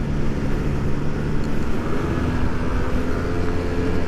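Motor scooter engine running on the move, with road and wind rumble; a higher engine note comes in about halfway through as the throttle opens. The scooter is misfiring and down on power: it really doesn't want to go with the throttle wide open.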